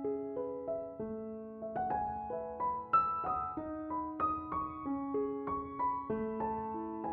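Calm piano background music: single notes picked out in a gentle melody over held lower notes, each note struck and left to ring.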